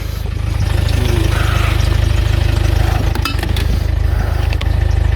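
Vehicle engine idling with a steady low rumble, and a few light clicks about three seconds in.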